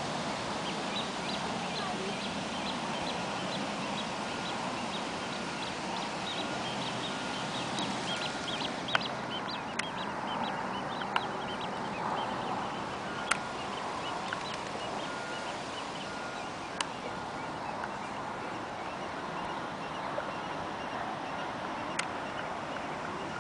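Birds calling in a quick run of short, repeated chirps for the first half or so, over a steady outdoor hiss; a few sharp clicks stand out in the second half.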